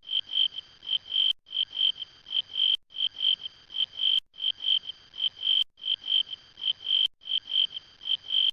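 A high, single-pitched animal chirping call, pulsing about five times in each short phrase. The phrase repeats identically about every one and a half seconds, with a brief gap and a click between repeats, like a recording played in a loop.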